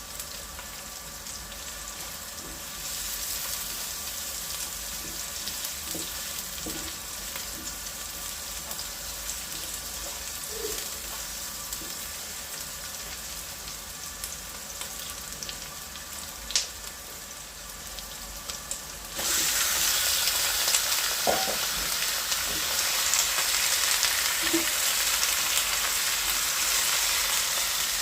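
Food frying and sizzling in a hot pan, with a few light knocks as it is stirred. The sizzle grows louder about three seconds in and jumps sharply louder about two-thirds of the way through.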